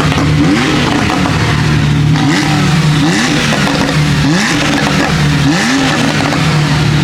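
Loud performance car engine with a deep steady exhaust drone, blipped repeatedly in quick revs that rise in pitch, about one a second.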